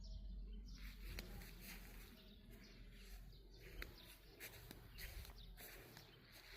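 Faint rural outdoor ambience: birds chirping, with irregular rustling from about a second in.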